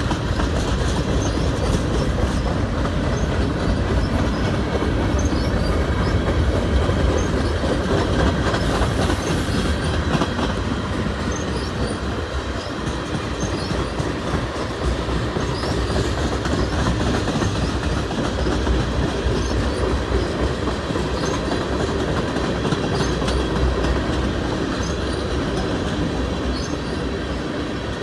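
Freight train cars rolling past: a steady rumble with wheels clacking over the rail joints and a faint wheel squeal.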